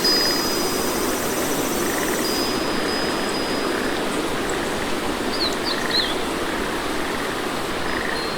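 Steady rain hiss, with a few quick bird chirps a little past halfway through and a thin steady high tone above it.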